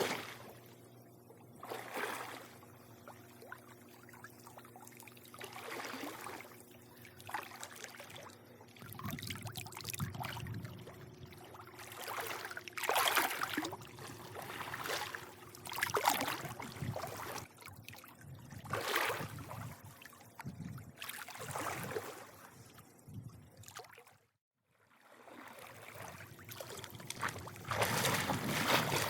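Swimming-pool water lapping and sloshing in irregular surges every second or two, over a steady low hum. The sound cuts out briefly about 24 seconds in.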